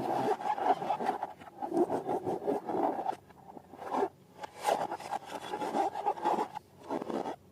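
Slime being mixed and squished by hand: an irregular run of rubbing and scraping. It pauses briefly about three seconds in, then goes on and stops near the end.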